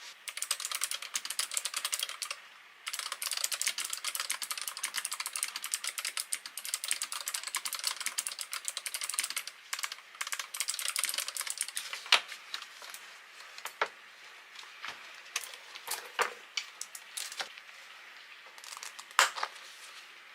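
Typing on a NuPhy Air75 low-profile mechanical keyboard with clicky Gateron blue switches. It starts with fast, continuous key clicks, pauses briefly, then slows about twelve seconds in to scattered single keystrokes, a few of them much louder.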